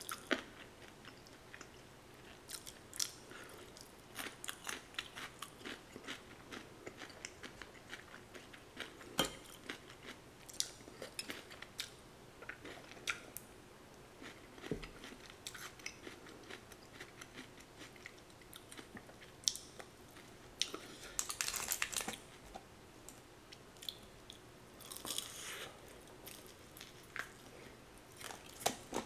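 A person chewing and crunching fried chicken close to the microphone: steady wet chewing with many sharp crunchy clicks, and two louder runs of crunching about two-thirds of the way through.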